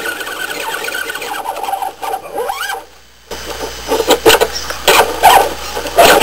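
Small electric motor and gears of an RC rock crawler whining and changing pitch as it works. After a sudden break about three seconds in, a run of loud knocks and clatter.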